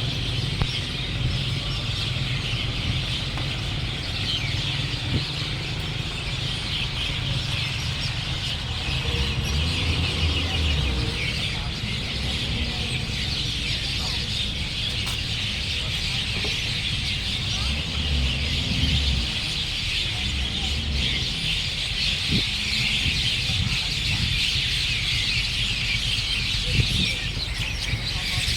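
A dense morning chorus of many birds chirping at once, steady throughout, with a few longer, slower calls in the middle and a low rumble beneath.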